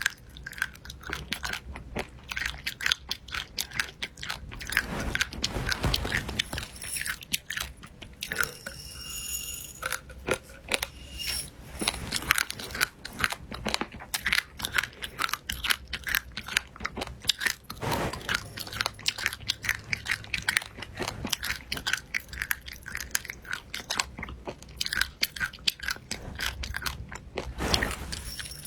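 Crunchy food being bitten and chewed close to the microphone, a steady irregular crackle of many small crunches.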